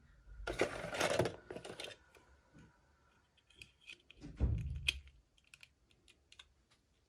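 Hands handling small plastic toy items and packaging. A rustle comes first, then a dull knock about four and a half seconds in, with a run of light clicks and taps in between and after.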